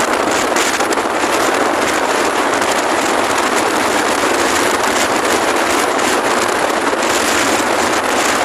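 Strong wind rushing and buffeting over the microphone in a loud, steady roar.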